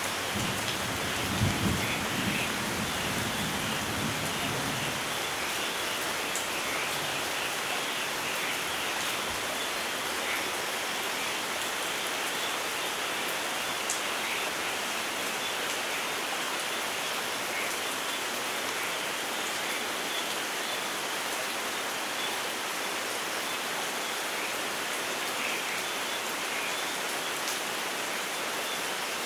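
Steady rainfall in a rainforest, with a low rumble of thunder in the first few seconds that dies away by about five seconds in.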